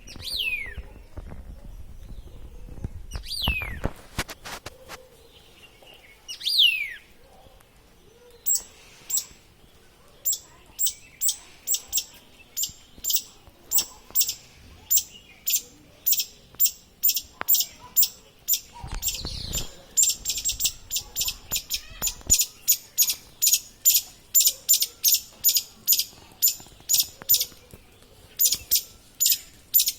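Bird calling: three whistled notes, each falling sharply in pitch, then a long, rapid run of short, high-pitched notes repeated at about two to three a second.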